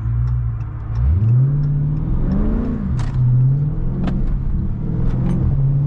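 Dodge Charger Scat Pack's 392 Hemi V8 revving: the engine note climbs about a second in, rises and falls, then holds steady, with a few sharp clicks.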